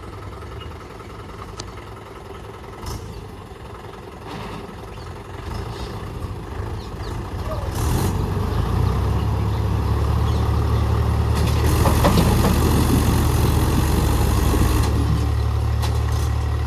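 Swaraj tractor's diesel engine running, moderate at first, then growing much louder about halfway through and staying loud with a deep rumble as it works under load.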